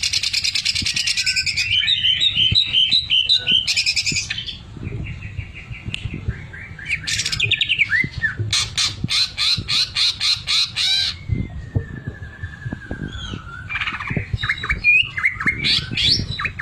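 Cucak ijo (green leafbird) singing a loud, varied song of rapid trills, chatters and whistles, with a fast run of repeated notes about halfway through and a long wavering whistle after it.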